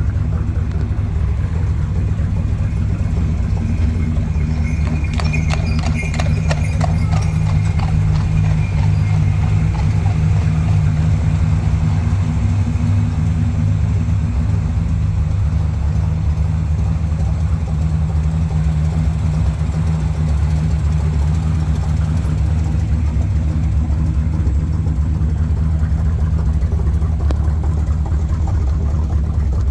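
1956 Chevrolet Bel Air's engine idling steadily, with a short run of clicks about five to seven seconds in.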